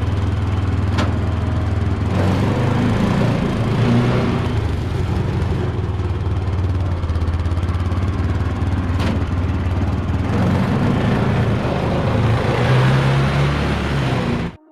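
Small motorbike engine with automatic transmission running in a homemade mini car, a steady hum whose revs waver and rise slightly near the end. There are two brief clicks, and the sound cuts off suddenly just before the end.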